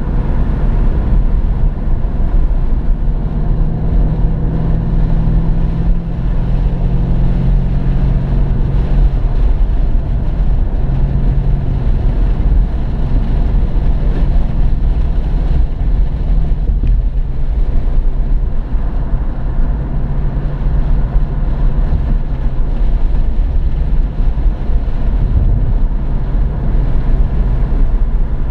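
2015 Ford Mustang GT's 5.0-litre V8 running hard on track, heard from inside the cabin along with wind and road noise. Its note holds steady for long stretches and drops about nine seconds in.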